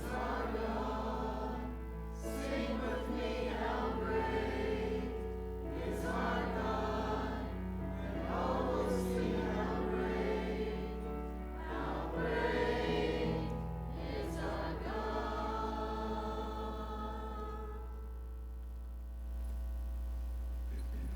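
A group of voices singing a hymn together in phrases, which fade out about eighteen seconds in. A steady low hum runs underneath and stands alone near the end.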